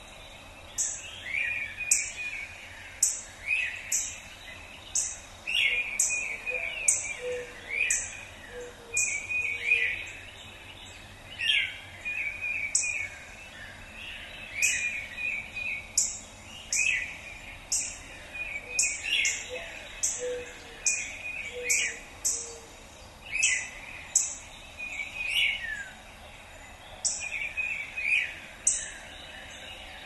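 Outdoor birdsong from more than one bird: a short, high, sharp chirp repeating about once a second, and between them warbling song phrases with quick falling notes every second or two, over a faint steady background hiss.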